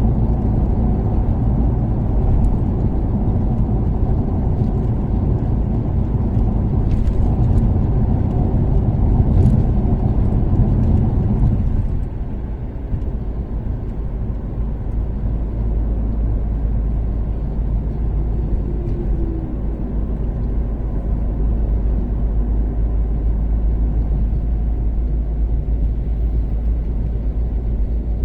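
Toyota Caldina's 3S-GTE turbocharged four-cylinder engine pulling at speed with road noise; about twelve seconds in the engine note drops away as the throttle is lifted, leaving a quieter steady cruise with tyre rumble.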